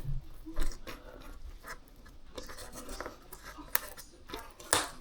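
Scattered small clicks and scratching from hands working a cocktail stick into a glued joint of a foam model plane, with a sharper click near the end.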